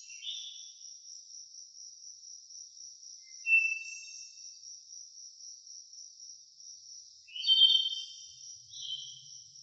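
Insects, likely crickets, trilling in a steady high-pitched pulsing chorus, with short bird calls about a third of the way in and twice more near the end, the one near the end the loudest.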